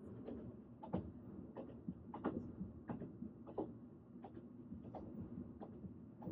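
Train running: a steady low rumble with a faint hum, dotted with irregular clicks and knocks.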